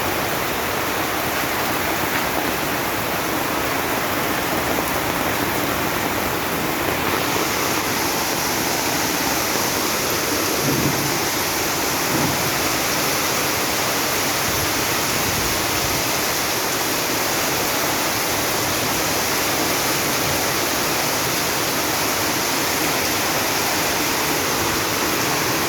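Heavy rain pouring down in a steady hiss. About seven seconds in, the hiss turns brighter and stays that way.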